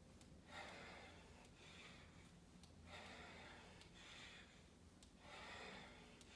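Faint heavy breathing of a woman exercising, hard breaths in and out about once a second during fast air squats.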